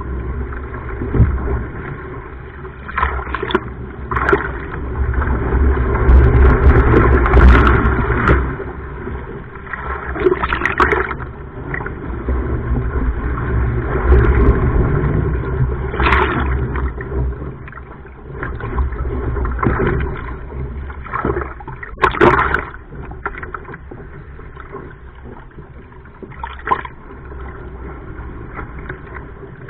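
Sea water sloshing and splashing against a surfski, over a steady low rumble, with several sharp splashes at uneven intervals.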